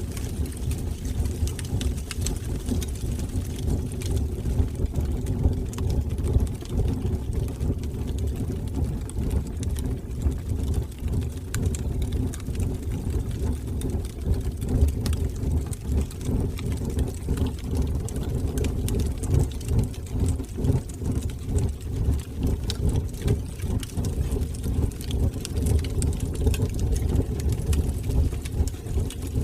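Wood fire burning in a fireplace: a steady low rumble from the flames with frequent small crackles and pops throughout.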